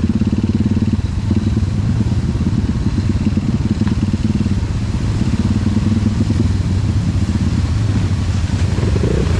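Trail dirt-bike engine running with a rapid, steady firing beat, the revs rising and easing slightly.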